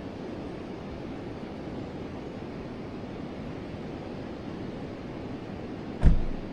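Forest river water flowing with a steady rushing noise. About six seconds in, a sudden low thump stands out above the water.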